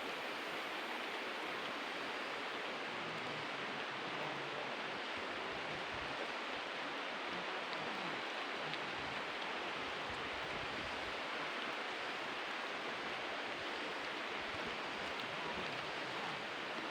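Steady rush of flowing stream water, an even hiss at constant level.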